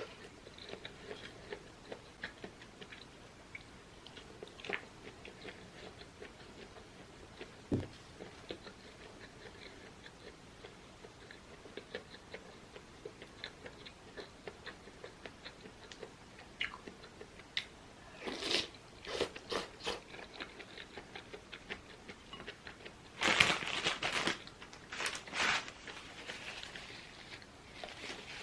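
Close-miked chewing and eating of soupy rice with meatballs: soft wet mouth clicks and chews. A few louder, noisier bursts come about two-thirds of the way through and again near the end.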